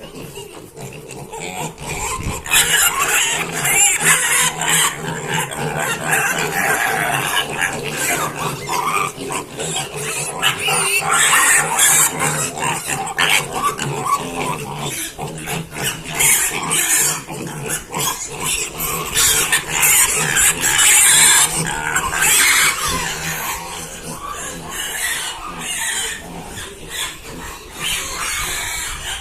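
Pigs squealing loudly, the shrill, overlapping cries starting about two seconds in and carrying on without a break.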